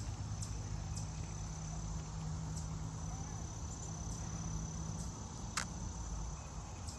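Insects trilling with a steady, unbroken high-pitched tone over a low continuous rumble of outdoor background noise. Scattered faint ticks are heard, with one sharper click a little before six seconds in.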